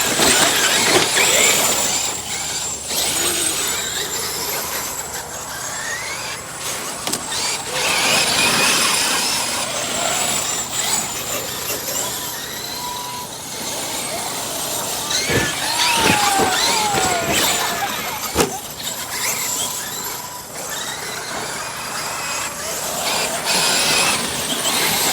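A pack of large-scale electric RC monster trucks racing together: the high whine of brushless motors and drivetrains rising and falling with the throttle over a constant noisy rush. There are two sharp knocks in the second half.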